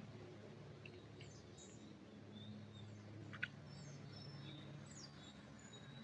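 Forest birds chirping faintly, with scattered short calls and whistles over a low steady hum. One short, sharp click comes about three and a half seconds in.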